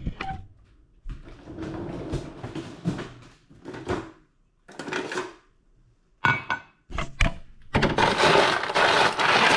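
Ice cubes being scooped and clinking together in a container, with a few sharp knocks, then a loud stretch of rattling clatter near the end.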